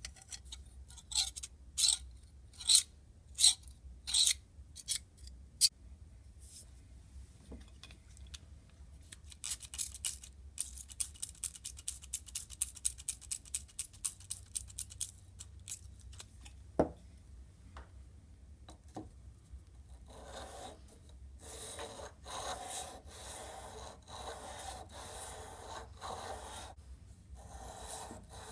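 Antique grass-trimmer metal being hand-filed in repeated rasping strokes: a few spaced strokes at first, then a quicker run of about three a second. The second half turns to a duller, steadier rubbing.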